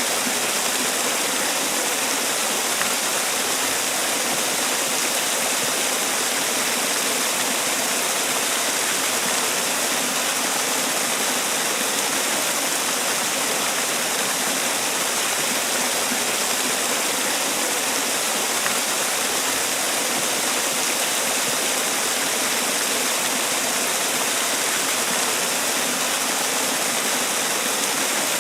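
Man-made waterfall: water falling and splashing in a steady, unbroken rush, strongest in the hiss range.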